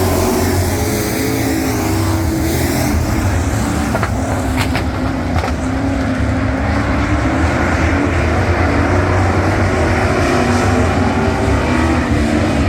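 Engines of a pack of dirt-track race trucks running together, loud and steady. A couple of brief sharp clicks come about five seconds in.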